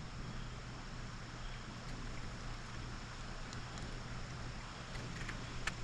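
Steady rush of a mountain stream's flowing water, under a low wind rumble on the microphone, with a few faint clicks near the end.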